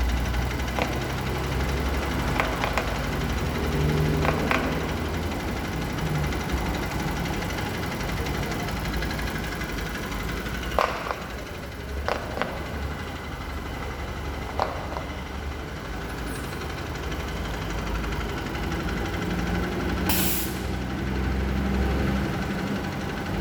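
Engine idling steadily in the background, with scattered light clicks and knocks and a short burst of hissing air about twenty seconds in.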